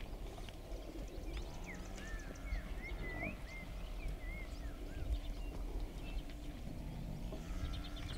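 Outdoor bush ambience: a bird whistles a run of short slurred notes for a couple of seconds near the middle, over a low rumble and scattered faint ticks.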